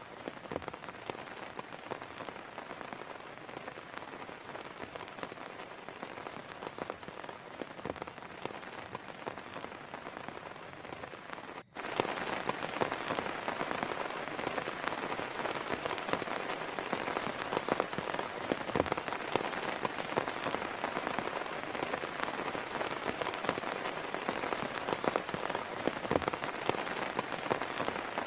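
Heavy rain falling steadily, with many separate drops striking close by. About twelve seconds in the sound drops out for an instant and comes back noticeably louder.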